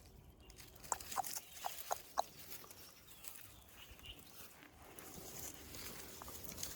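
Newborn puppies squeaking: about five short, high squeaks in quick succession near the start, over faint rustling.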